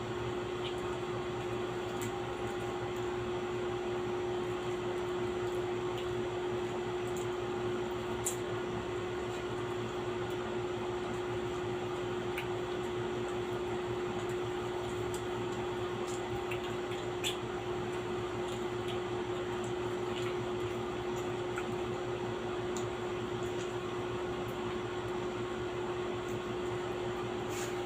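A steady machine hum with one constant tone, like a room fan or air-conditioning unit running, and a few faint ticks scattered through it.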